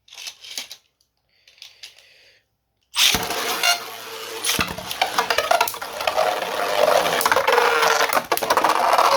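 3D-printed beyblade spinning tops launched into a stadium about three seconds in, then spinning and clattering against each other and the stadium walls in a dense rattle of hits, with a steady spinning hum, for about six seconds.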